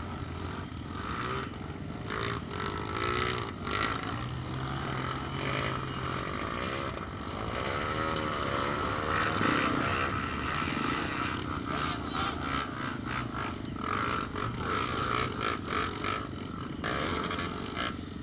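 Steady low rumble of a running vehicle, with indistinct voices and scattered short knocks over it.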